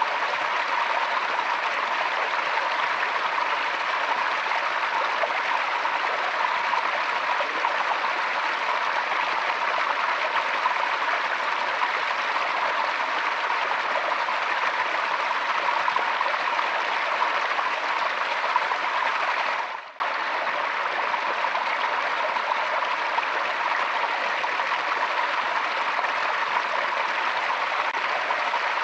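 Forest stream flowing steadily, an even rush of running water. About two-thirds of the way through the sound dips away for a moment and comes straight back.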